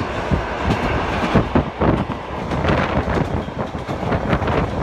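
Moscow–Beijing Trans-Siberian passenger train running at speed: a steady rumble of the carriage, with wheels clattering and knocking irregularly over the track.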